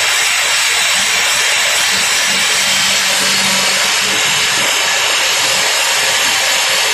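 Simba S7D longhole drill rig drilling: its hydraulic top-hammer rock drill on T-38 rods running steadily, a loud, even, high-pitched noise without pauses.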